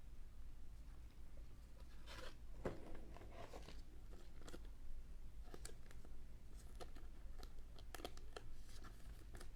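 Trading cards being handled, with a soft crinkly rustle about two seconds in, then scattered light clicks and taps.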